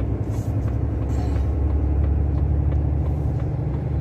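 Steady low rumble of the vehicle being driven and its road noise, heard from inside while following another vehicle, with brief hissing about half a second in and again just after a second.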